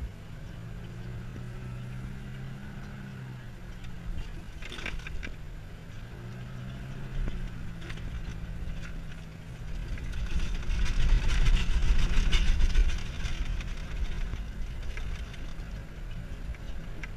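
Four-wheel-drive vehicle's engine heard from inside the cabin while driving on soft desert sand, its note wavering up and down. About ten seconds in it grows louder for about three seconds, with a deep rumble and a rushing hiss as it works up a sandy rise.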